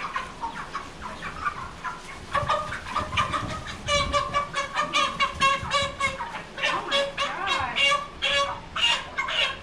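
Meat chickens calling over and over in short clucks and peeps, a few at first, then a busy run of calls from about two seconds in.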